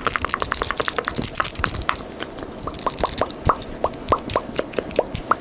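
ASMR mouth sounds close to the microphone: quick wet tongue-and-lip clicks for about two seconds, then slower hollow mouth pops, about two or three a second.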